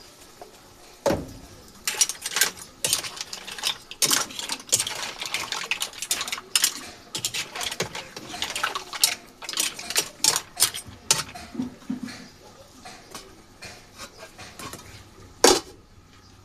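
Kitchen clatter: hard objects clinking and knocking against each other over and over. There is a louder knock about a second in and another near the end.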